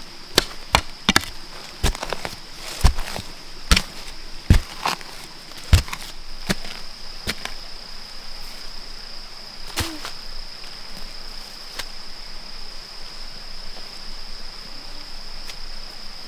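Sharp knocks, one or two a second for about the first six seconds, then only a few spaced out, over a steady high insect buzz.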